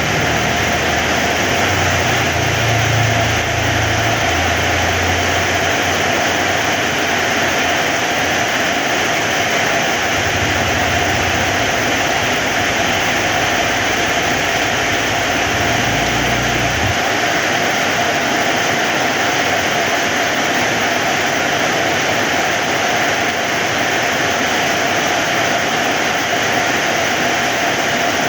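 Heavy rain falling steadily. A low rumble comes and goes under it during the first part and cuts off suddenly about two-thirds of the way through.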